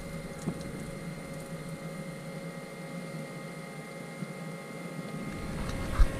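Electric fuel pump of a Case IH MXM175 tractor running with a steady whine, priming the fuel system while air is bled off for a hard-starting engine. A light click comes about half a second in.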